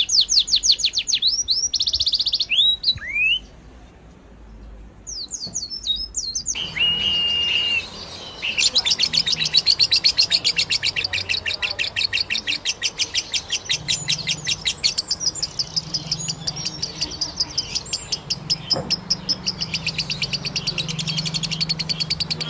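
Small birds chirping in fast, high-pitched trills, with a quieter spell a few seconds in. After that comes a single held whistle, then an unbroken run of rapid chirps.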